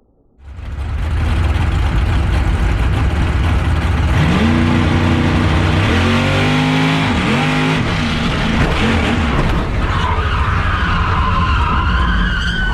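Drag-racing truck's engine at full throttle on a pass, starting abruptly and holding loud, its pitch rising and dropping back several times as it shifts. A high whine comes in near the end.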